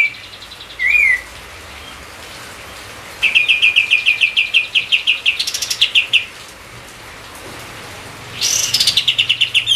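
A songbird singing bright, high chirps: a short downward-slurred note about a second in, then a fast run of repeated notes for about three seconds, and another burst of song near the end, over a steady quiet hiss.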